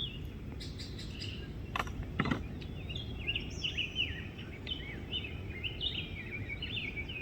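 A songbird singing a rapid run of short, sweeping chirps over a steady low background rumble, with a couple of sharp knocks about two seconds in.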